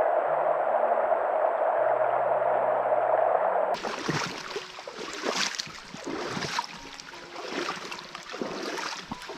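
A steady rush of river water through a rapid. About four seconds in it gives way abruptly to irregular splashing of water, over faint background music.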